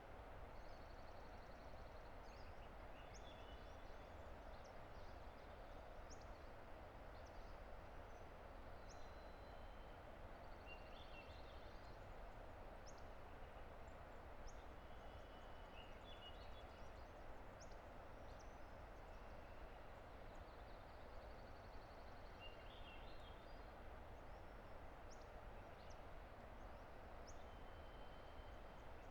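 Distant river rushing as a steady, faint hiss, with scattered small bird chirps and whistles high above it.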